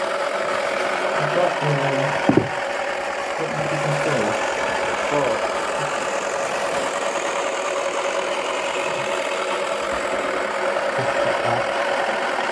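Small electric motor of a toy washing machine running steadily with a constant hum, and a single knock a couple of seconds in.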